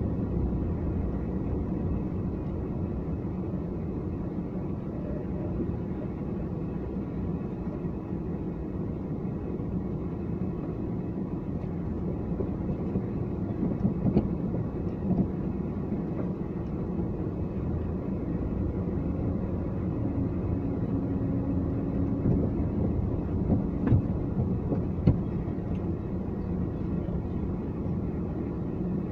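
A car driving, with steady engine and road rumble and a few sharp knocks about halfway through and again near the end.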